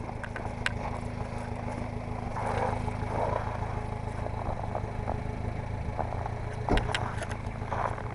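Mini truck's small engine running steadily, with scattered clicks and rattles and one loud knock just before the end.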